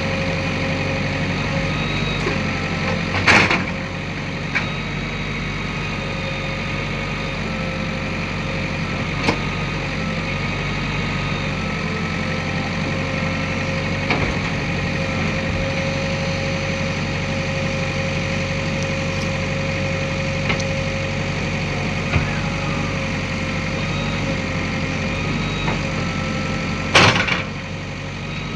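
JCB backhoe loader's diesel engine running steadily. Two loud short knocks stand out, one about three seconds in and one near the end, with a few lighter clicks between.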